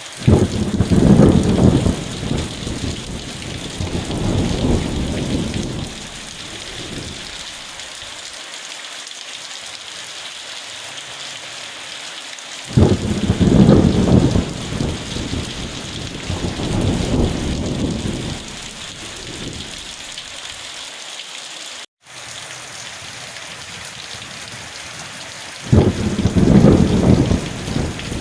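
Steady rain falling, with rolls of thunder. The thunder breaks in suddenly three times, about 13 seconds apart, and each roll rumbles on for several seconds before fading back to the rain.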